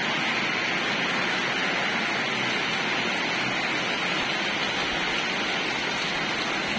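Heavy rain pouring down steadily, an even hiss of water with no letup.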